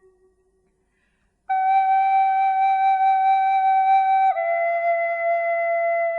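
Slow, calm flute music. After about a second and a half of silence, one high note is held for about three seconds, then steps down a little to another long held note.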